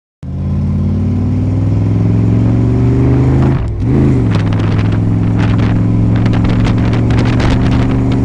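Car engine running at a steady speed, starting abruptly; its pitch briefly dips and rises about four seconds in, with scattered clicks afterwards.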